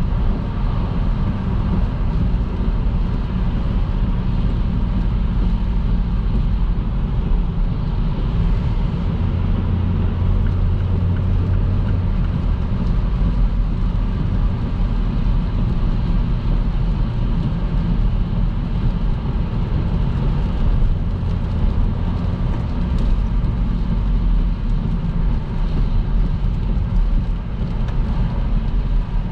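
A car driving at motorway speed on a wet road: a steady low rumble of tyres and engine that swells a little in the lows between about nine and twelve seconds in.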